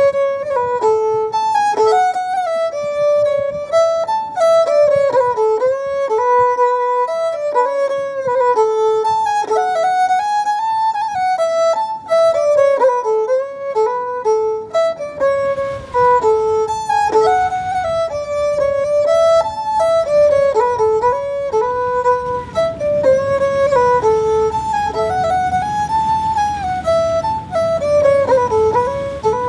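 Background music: a solo violin playing a lively melody.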